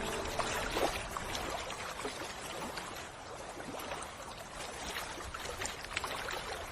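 Water running and trickling: a steady hiss with many small splashes and drips.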